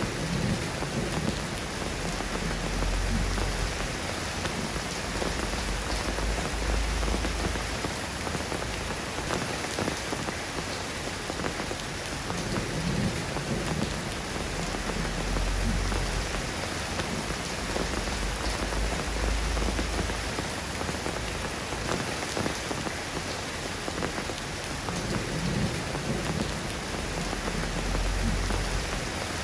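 Steady, dense rain falling on a surface, with low rumbles swelling up several times underneath.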